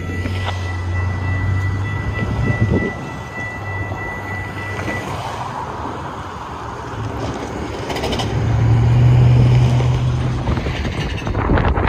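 A diesel train approaching from a distance: a low steady engine drone that swells louder about eight to ten seconds in. A thin high steady tone fades away about five seconds in.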